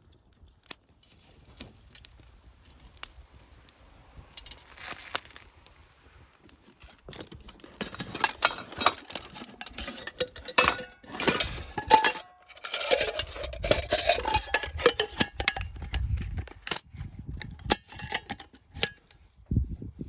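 Metal camp cookware and utensils clinking, knocking and scraping as they are handled. The knocks are sparse at first and grow busier about halfway through, with a few short metallic rings.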